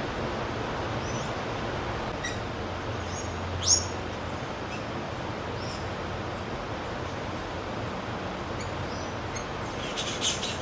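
Wild birds calling in short, scattered chirps over a steady background hum. The loudest, a sharp sweeping call, comes a little under four seconds in, with a quick cluster of chirps near the end.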